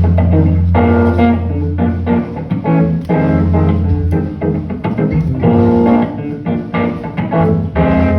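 Guitar playing a run of plucked notes over a sustained low bass: the instrumental opening of a song.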